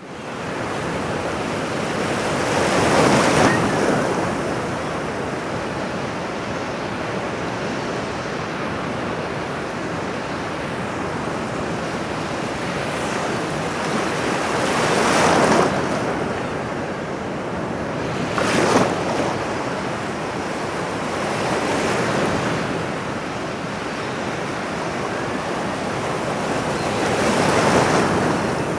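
Ocean surf: a continuous wash of water with waves breaking in swells every several seconds, about five in all, one a sharper crash a little past halfway.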